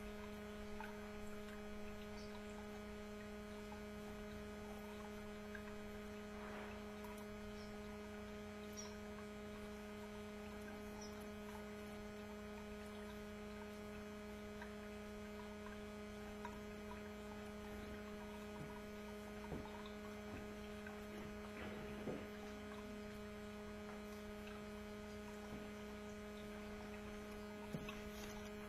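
Steady low electrical hum, with a few faint soft taps in the second half.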